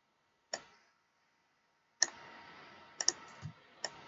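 Computer mouse clicking: about five sharp single clicks, spaced irregularly, two of them in quick succession about three seconds in.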